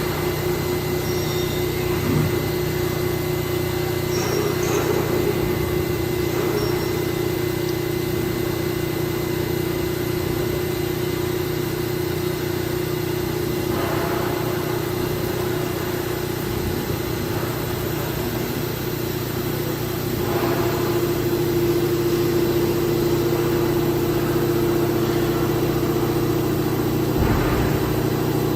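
VMC1160 vertical machining center running with a steady mechanical hum and a held tone, which grows a little louder about two-thirds of the way through, with a few faint knocks.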